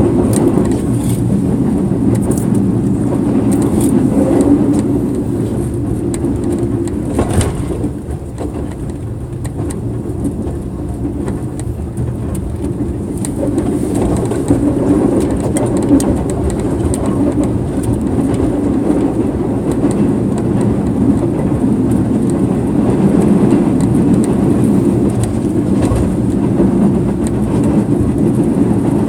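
Air-conditioned sleeper train running on the rails: a steady low rumble with occasional sharp knocks. It eases for a few seconds about a third of the way in, then picks up again.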